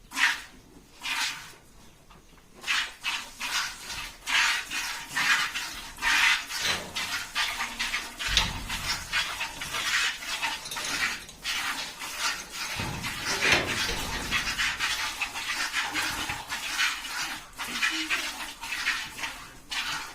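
A buffalo being milked by hand: milk squirting into a pail in quick rhythmic strokes, about two to three squirts a second.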